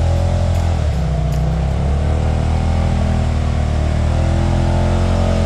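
Side-by-side UTV engine revving up and down several times without the machine pulling away easily, a sign its CVT belt is slipping, which the riders put down to water in the belt.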